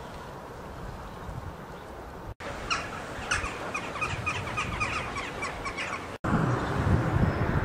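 A small bird singing a rapid series of short, high chirping notes for about four seconds, over steady outdoor background noise. Near the end the bird stops and low wind gusts on the microphone take over.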